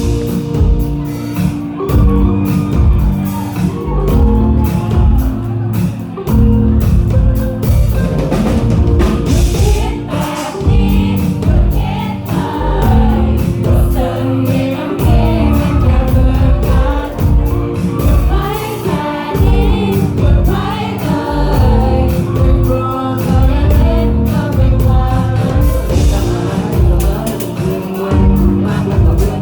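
Live pop-rock band playing a song with drums, bass and guitar, a sung melody over it, and many voices singing together.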